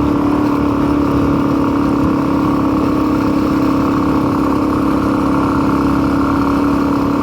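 Motorcycle engine running at a steady speed while riding, a constant drone with a low rumble underneath.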